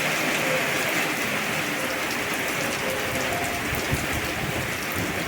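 Heavy storm rain falling steadily: a dense, even hiss.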